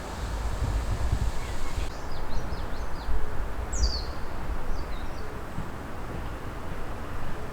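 Eastern crowned warbler singing: a few short high notes, then a louder, longer note that slides downward, and a few more short notes after it. A steady low wind rumble on the microphone runs underneath.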